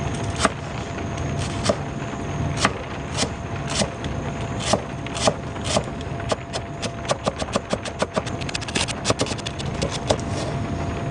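Steady hiss of heavy rain, with a series of sharp taps over it. The taps start spaced out, quicken into a fast run, then stop shortly before the end.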